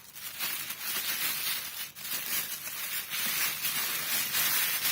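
Plastic packaging crinkling and rustling as it is handled and pulled off a new toaster, with an uneven rise and fall throughout.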